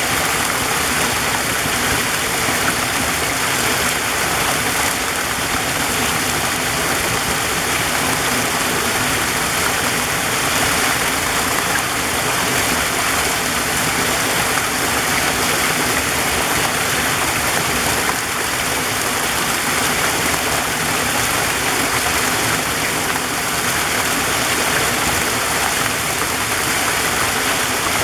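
Waterfall running steadily: a dense, even rush of falling water.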